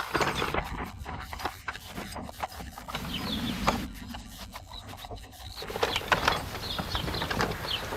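A plastering tool rubbing and scraping straw-based render across a wall in irregular strokes, with scattered sharp knocks and clicks.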